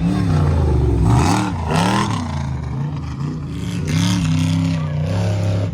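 Prerunner off-road race truck engine revving hard under throttle, its pitch rising and falling several times in quick succession, then holding steadier with one more climb about four seconds in.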